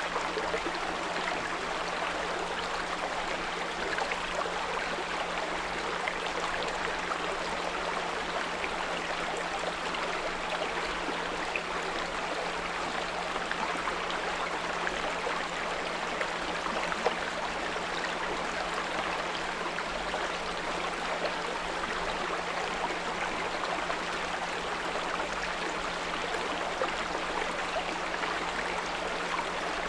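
Small brook babbling and rushing steadily, with a steady low pure tone at 174 Hz laid under the water.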